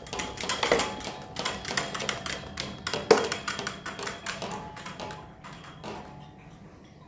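Fast, irregular clatter of sharp knocks and rattles from a spinning electric fan rig, thinning out and dying away about six seconds in.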